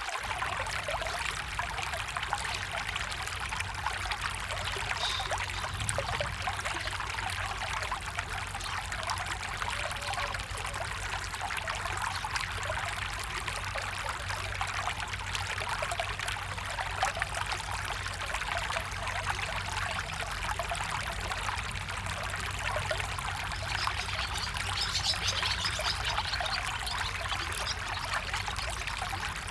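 Steady rush and trickle of flowing water from a stream, unbroken throughout.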